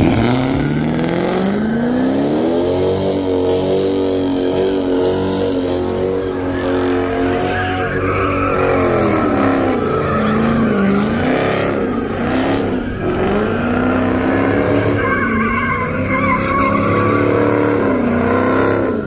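A car spinning donuts: its engine revs climb steeply at the start and are held high, then drop and surge up and down repeatedly while the tyres squeal and skid through the second half.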